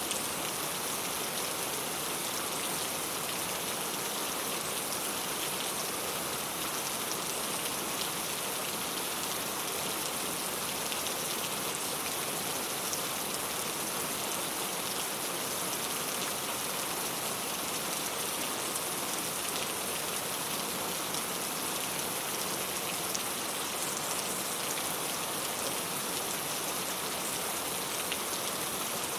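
Steady rain falling on a clay-tile roof: an even hiss of rainfall peppered with the ticks of individual drops striking the tiles.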